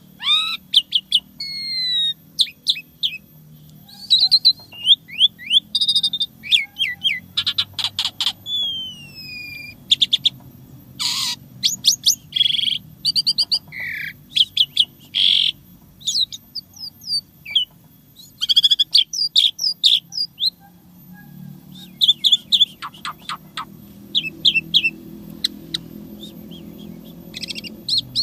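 Asian pied starling (jalak suren) singing a long, varied song of whistles sweeping down in pitch, rapid chirping trills and a few harsh rasping calls, broken by short pauses.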